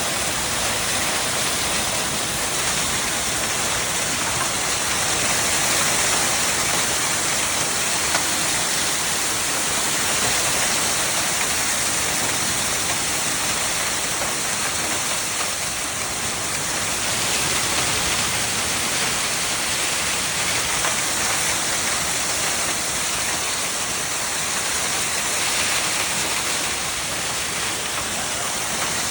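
Heavy storm rain pouring down: a steady, even rush with no breaks.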